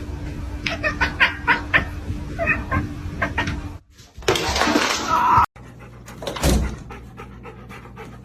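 A dog panting, heard across short clips joined by abrupt cuts about four and five and a half seconds in.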